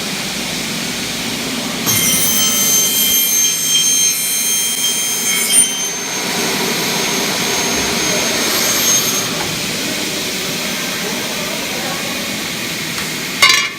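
Double-head aluminium cutting saw with 455 mm carbide-tipped blades: the motors run with a steady hum, and from about two seconds in to about six seconds the blades cut through an aluminium window profile with a loud, high-pitched whine. A weaker stretch of the same whine follows a few seconds later, and a sharp clack comes near the end.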